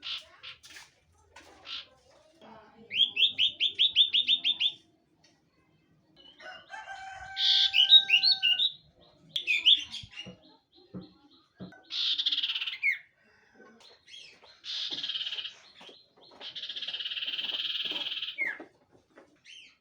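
Common iora (cipoh) singing: a fast run of about ten short rising chirps, then varied whistled phrases and long buzzy, rasping notes that each end in a quick downward slur.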